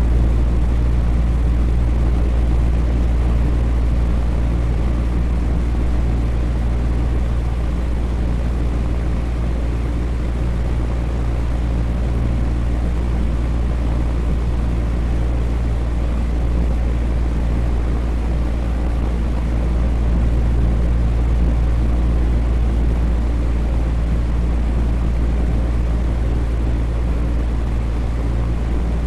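Electric fan running steadily: a constant low hum and rumble under an even whooshing of moving air, with no change in speed.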